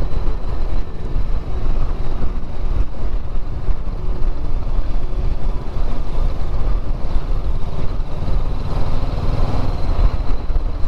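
Motorcycle on the move: steady wind rush and road noise over the camera microphone with the engine running underneath.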